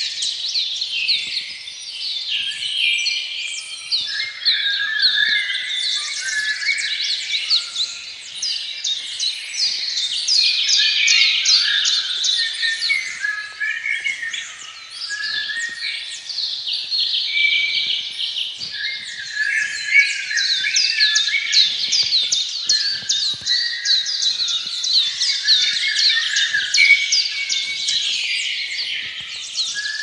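A chorus of many birds chirping and singing at once, with overlapping runs of short, quick, high notes throughout.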